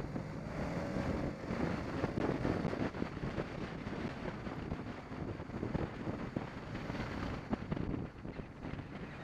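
BMW 650 GS motorcycle running on the road, its engine mixed with steady wind rush buffeting the microphone.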